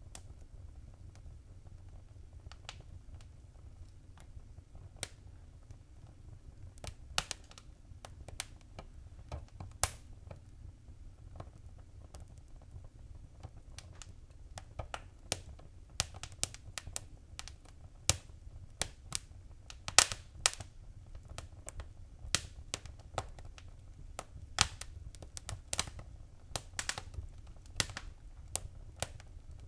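Wood fire burning in a fireplace, crackling and popping irregularly over a steady low rumble. The pops are sparse at first and come more often in the second half.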